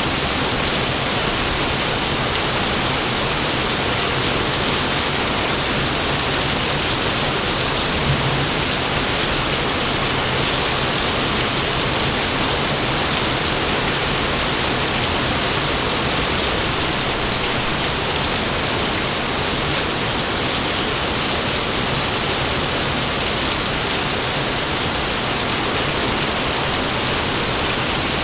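Heavy rain falling steadily: a dense, even hiss of rain with no thunder.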